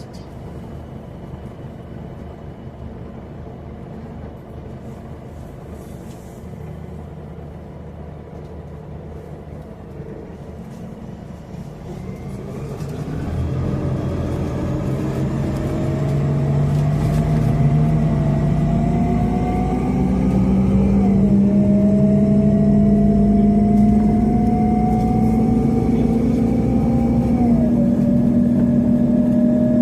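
Scania CN270UB city bus's CNG engine running quietly at low speed, then accelerating hard from about twelve seconds in: the engine note and a whine climb in pitch, drop sharply twice as the automatic gearbox shifts up, and climb again.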